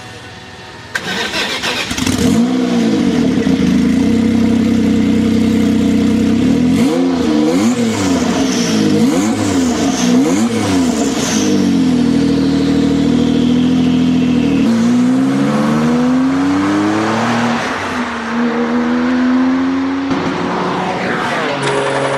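A car engine revving hard, its pitch swooping up and down several times. It then accelerates, the pitch climbing in steps near the end.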